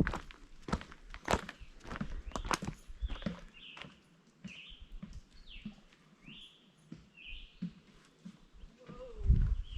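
Footsteps of people walking, with a bird repeating a short call note about six times midway through, and a low thump near the end.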